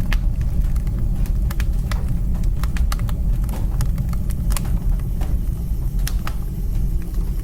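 Wood fire burning in a fireplace: a steady low rumble of the flames and draught with sharp, irregular crackles and pops from the burning wood.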